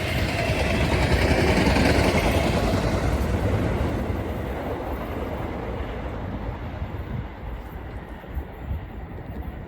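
A train passing through the station and pulling away, its running noise on the rails fading steadily over several seconds.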